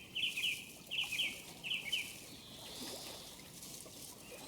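Outdoor nature ambience with a songbird chirping in short groups of quick, falling notes, three groups in the first two seconds, over a steady soft hiss of running water.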